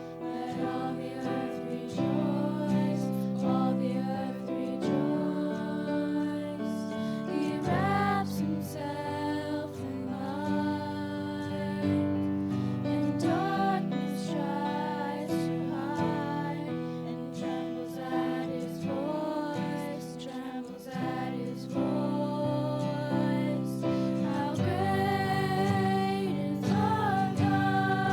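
A worship song sung by girls' voices with instrumental accompaniment, sustained chords under a slow sung melody.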